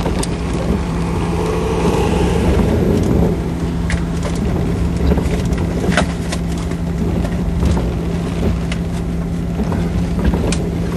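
Strong storm wind buffeting the microphone as a steady low rumble, with a constant low hum underneath and scattered sharp clicks.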